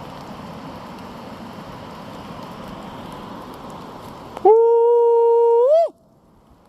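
Steady hiss of rain, then a loud single held hoot-like call about a second and a half long, flat in pitch before rising at the end and breaking off abruptly; the background noise drops out around it.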